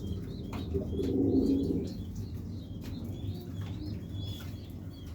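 Black pouter pigeon cooing: one low, rolling coo lasting about a second, starting just under a second in, with faint short high chirps scattered throughout.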